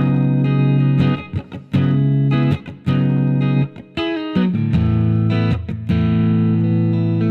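Harley Benton JA-60 Jazzmaster-style electric guitar on its neck single-coil pickup, played clean: chords strummed and left to ring, re-struck about once a second, changing chord about four seconds in.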